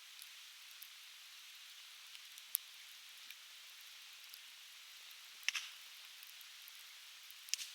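Conifer firewood burning and crackling, with three sharp pops about two, five and a half, and seven and a half seconds in among fainter ticks. Under it runs the steady hiss of a river flowing.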